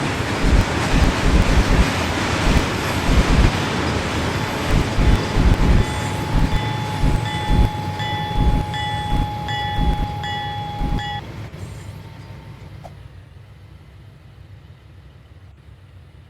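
Norfolk Southern freight train rolling past, with heavy irregular low thumping and a steady high ringing tone for several seconds. Near the end the sound drops away sharply as the train passes.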